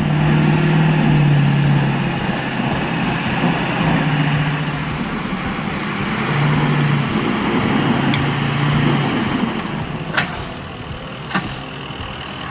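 Heavy truck engine running hard under load, with a dense steady rushing noise over it, as the stuck truck tries to pull free. Two sharp knocks come near the end.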